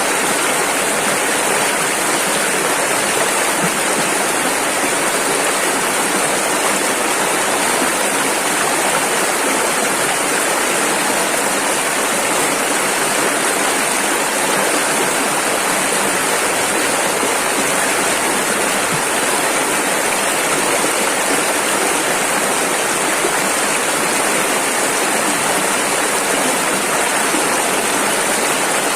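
Rushing river water: a steady, unbroken rush of flowing water.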